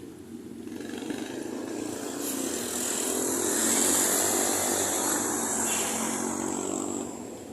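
A motor vehicle passing by, growing louder to a peak about four seconds in, then fading away.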